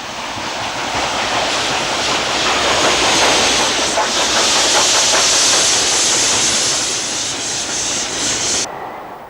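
LMS Stanier Class 5 'Black Five' 4-6-0 two-cylinder steam locomotive passing close by under steam. It grows louder to a peak in the middle, then fades, and the sound cuts off suddenly near the end.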